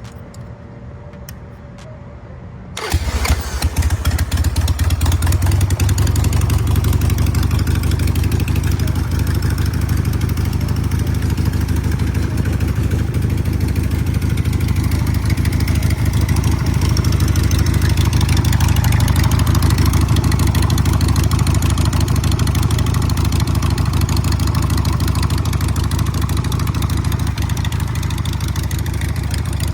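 Harley-Davidson Sportster 1200's Evolution V-twin motorcycle engine starting abruptly about three seconds in, then running steadily at idle.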